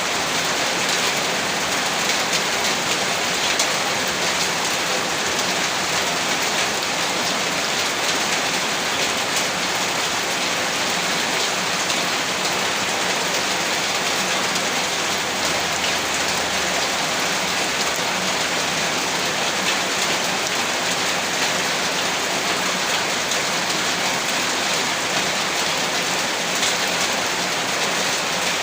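Heavy rain falling steadily, a dense even hiss of drops with scattered sharper patters.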